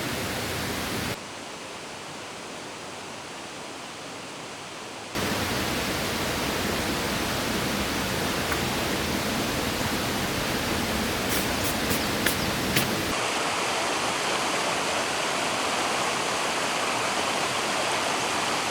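Mountain stream rushing steadily, with sudden shifts in level where the shots change. A few light ticks sound about two-thirds of the way through.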